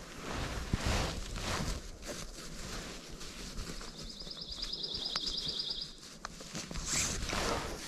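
Wind buffeting the microphone and rustling the woods, with a small songbird's rapid high trill lasting about two seconds midway.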